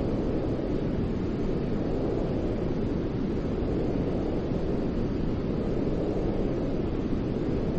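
Continuous white-noise sleep sound for soothing a crying baby: a steady, even rush, heavy in the low end and dull rather than hissy, with no change.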